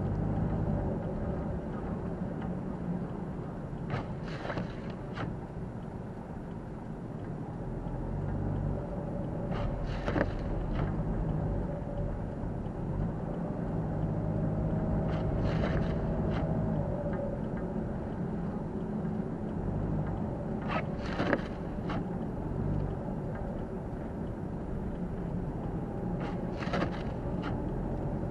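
Car cabin noise while driving on a snow-covered road in a blizzard: a steady low rumble of tyres and wind. About every five to six seconds comes a short, sharp double sound.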